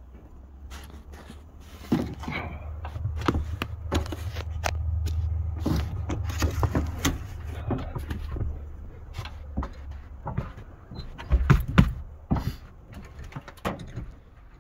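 Cold start of a 1981 Chevy K30's 350 small-block V8 after weeks of sitting in sub-freezing weather: a low engine rumble comes up about two seconds in and runs for several seconds, then fades, with clicks and knocks throughout and a few loud bumps near the end.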